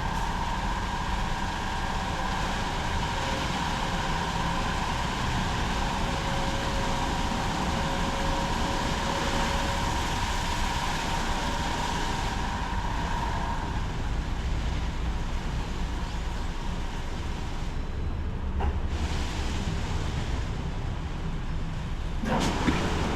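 Automatic car wash machinery running: a steady rushing and rumbling noise with a whine that stops about 14 seconds in, and a sudden change in the noise near the end.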